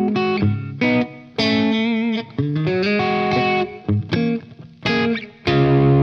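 Electric Telecaster-style guitar played through an Origin Revival Drive overdrive pedal and VHT amp: short chords and single notes with brief gaps between them, one note held with vibrato about two seconds in, ending on a loud ringing chord.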